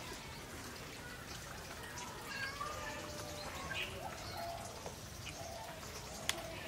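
Birds chirping faintly, with scattered short calls over a quiet background and a single sharp click a little after six seconds in.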